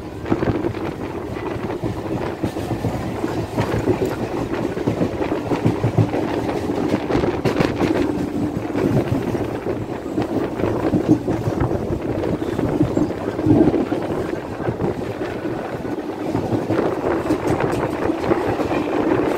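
Moving passenger train heard from aboard: a steady running noise of the carriage and wheels on the rails, with scattered clicks.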